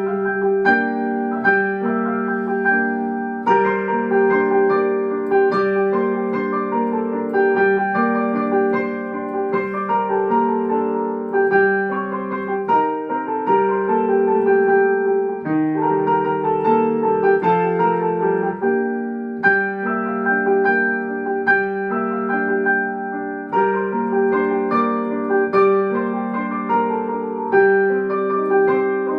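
Instrumental music played on a keyboard instrument with a piano sound: a run of repeated struck-note phrases over a held tone, with no singing.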